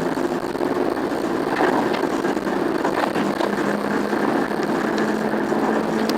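Class 08 diesel shunter's English Electric six-cylinder diesel engine running steadily under power in notch 2 as the loco moves along, with a few light knocks about one and a half and three seconds in.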